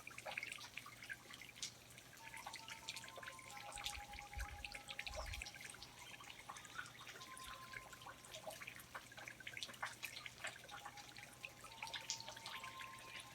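Rainforest ambience of water dripping: many irregular drops falling. Faint drawn-out trills come and go beneath them, and there is a brief low rumble about four seconds in.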